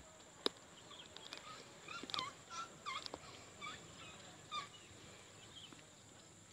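A bird calling in a quick run of short chirping, rising-and-falling notes, thickest about two to three seconds in, with a single sharp click about half a second in.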